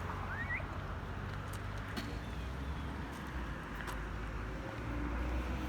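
An engine running steadily as a low hum, growing a little louder near the end, with a short rising chirp near the start.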